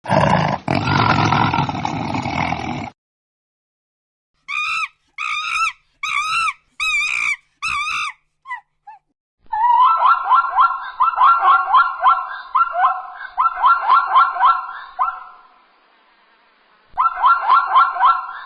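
A string of separate animal calls: a rough, noisy call for about three seconds, then five short warbling calls, then long runs of fast trilled calls, with a last run near the end.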